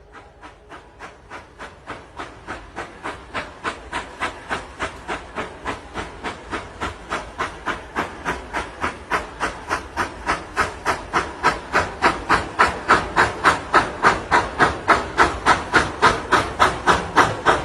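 Steam locomotive chuffing, its exhaust beats coming evenly at about three a second and growing louder throughout.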